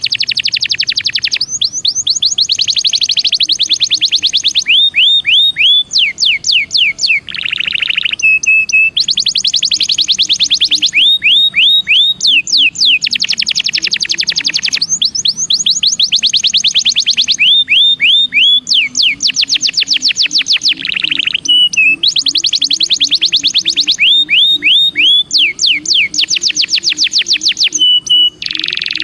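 Belgian canary singing a long, almost continuous song: fast rolling trills alternating with short runs of clear, downward-sliding whistled notes.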